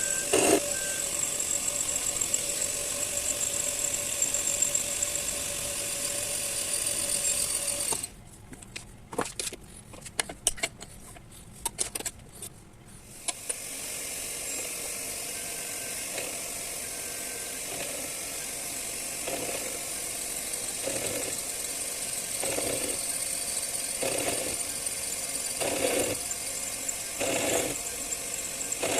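Metal lathe running while turning steel studs, with a steady hum and a high whine. About eight seconds in it drops away for a few seconds to a few scattered clicks, then runs again with a regular pulse about every second and a half.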